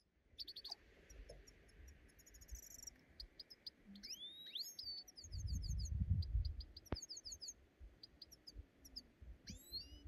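Small songbirds chirping and trilling outdoors, with quick rising whistled notes now and then, over a low rumble that swells for a couple of seconds about halfway through.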